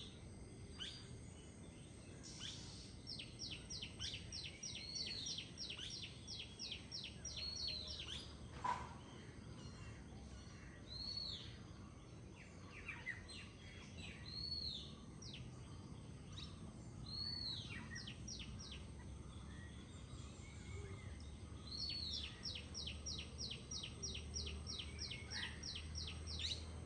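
Several songbirds singing: repeated arching whistled notes and, near the start and again near the end, a long run of short quick notes at about five a second, over a faint low rumble.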